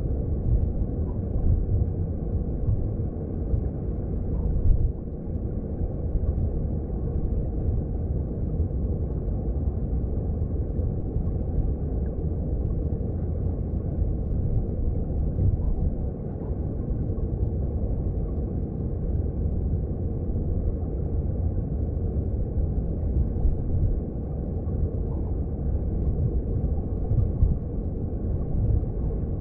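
Mountain stream heard from underwater: a steady low rumble of flowing water, with a few faint ticks.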